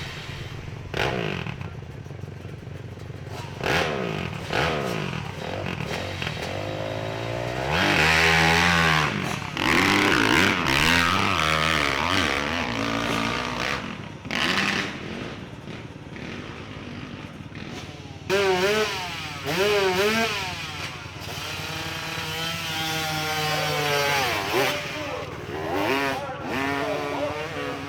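Motorcycle engine revving hard, its pitch sweeping up and down again and again. It is loudest about a third of the way in, with further bursts of revving in the second half.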